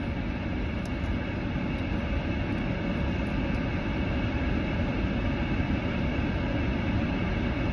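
Steady hum of a car's engine idling, heard inside the cabin.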